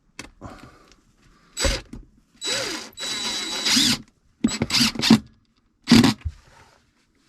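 Power drill driving screws in several short bursts, the longest about a second and a half, with a steady motor whine.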